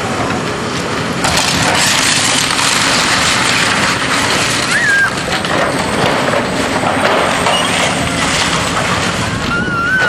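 A building being torn down by demolition machinery: crunching, splintering wood and falling debris, growing louder about a second in and continuing as a steady crackling din.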